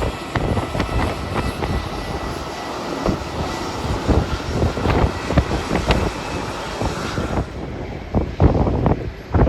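Jet airliner's engines running with a faint high whine, heard through heavy wind buffeting the microphone in gusts. The engine noise falls away about three-quarters of the way through, leaving mostly wind gusts.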